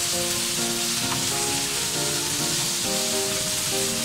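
Taro root pieces sizzling steadily in hot oil in a frying pan as they are stirred with a spatula, with background music playing along.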